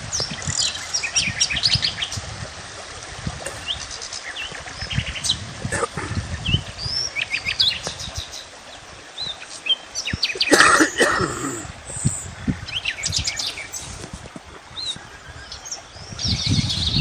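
Small birds chirping and twittering throughout, with short rising and falling whistles. There is a louder burst of sound about ten seconds in, and low rumbling thumps underneath.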